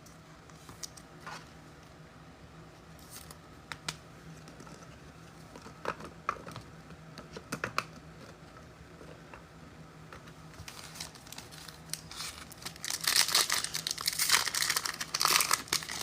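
Football trading card pack wrapper being torn open and crinkled by hand: a few light clicks and rustles at first, then a loud, dense crinkling over the last few seconds.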